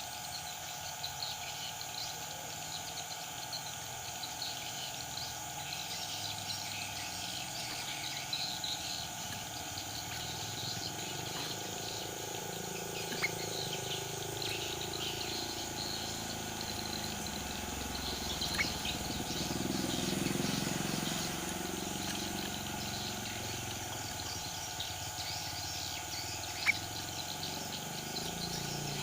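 Faint, scattered bird chirps over a steady drone of insects, broken three times by a sharp click.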